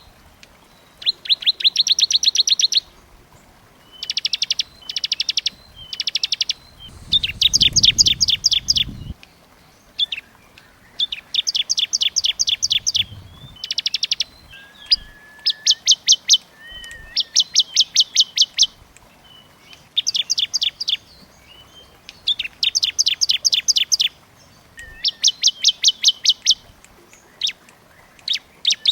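Small songbird ('burcil') singing in tight, rapid trills: bursts of high, evenly spaced notes, each burst lasting one to two seconds, repeated with short pauses. A faint low rumble runs underneath about seven to nine seconds in.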